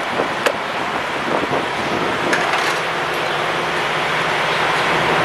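Steady vehicle noise with a couple of light clicks; a low, even hum comes in about two seconds in.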